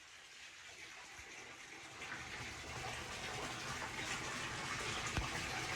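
Running water, a steady rush that grows louder over the first two seconds.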